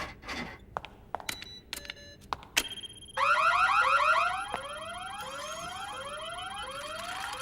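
Cartoon electronic sound effect of a magic-testing robot working a spell. It starts with scattered clicks and short beeps, then a steady high tone comes in, followed by an alarm-like rising whoop that repeats about every 0.7 s to the end.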